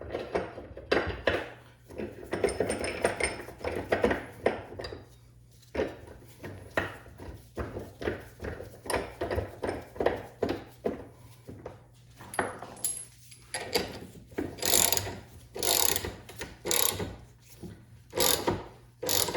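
Repeated uneven mechanical clicks and knocks of hand tools working a universal-joint bearing cap out through a driveshaft yoke, with sharper, louder knocks about once a second near the end.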